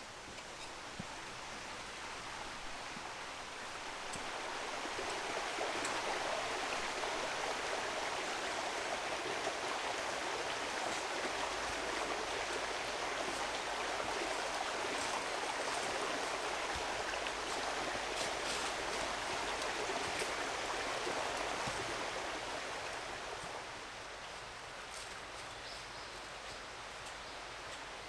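Rushing water of a mountain stream, a steady hiss that swells up a few seconds in, holds, and fades back down near the end.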